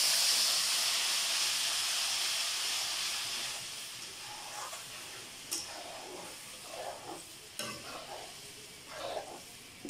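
Ginger-garlic paste sizzling in hot oil in a metal wok, the sizzle fading over the first few seconds as the paste cools the oil. A spatula stirs and scrapes the pan, with a few sharp clicks against the metal.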